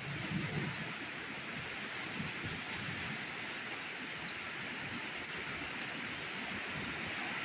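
Torrential rain from a summer thunderstorm downpour, a steady even hiss, with a brief low rumble about half a second in.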